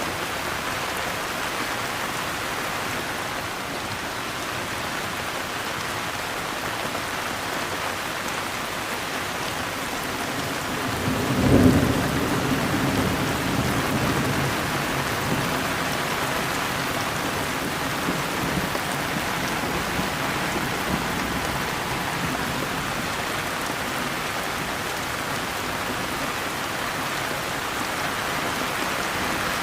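Steady heavy rain hissing, with one clap of thunder rumbling low about a third of the way in and dying away over a few seconds.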